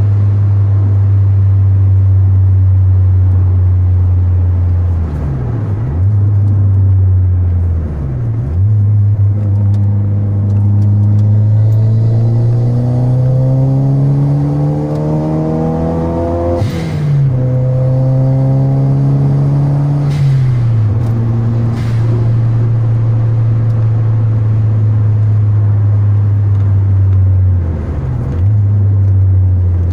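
Toyota Celica GT-Four's turbocharged four-cylinder engine heard from inside the cabin while driving. It runs steadily with a few brief dips in revs as the throttle is lifted. A little past halfway the revs rise through a long pull, then a short hiss from the blow-off valve comes as the revs drop back.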